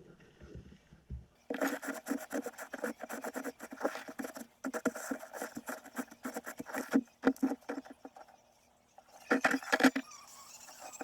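Rapid, irregular clicking and scraping of wood, with a short pause about eight seconds in.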